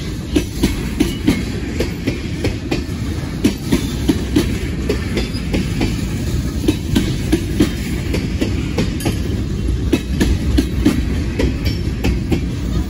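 Freight train of railroad tank cars rolling past at steady speed: a continuous low rumble with a rhythm of wheel clacks as the car wheels cross rail joints, a couple to a few clacks a second.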